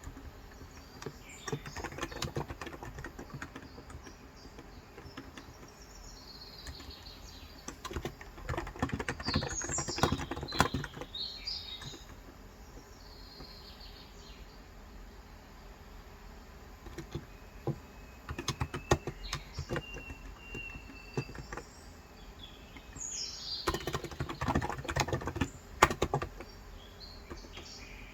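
Typing in bursts of rapid keystrokes on a COX Endeavor electro-capacitive keyboard with 35 g switches: four runs of typing with short pauses between. Birds chirp in the background.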